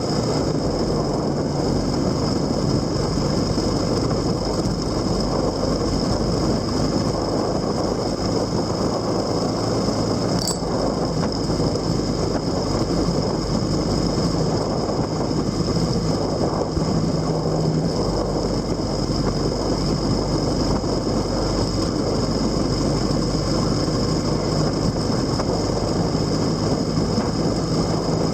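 Motorcycle on the move: steady wind and road rush over a low engine drone whose pitch shifts slightly, with one brief click about ten seconds in.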